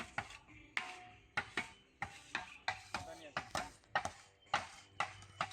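Shovel scraping and chopping into packed dirt in quick, uneven strokes, about two or three a second, as a jump is shaped.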